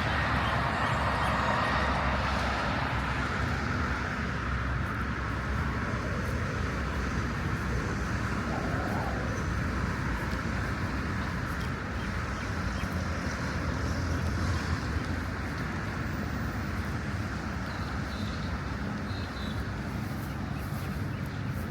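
Steady hum of road traffic, a city street ambience with no single sound standing out.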